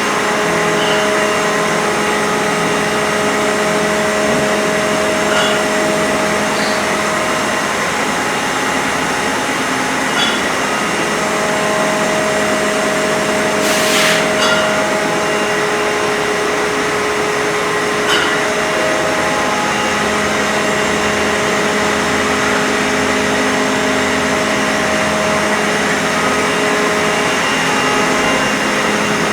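CNC machine running with a steady whir, its motor tones shifting pitch every few seconds as it moves, with a short hiss about midway.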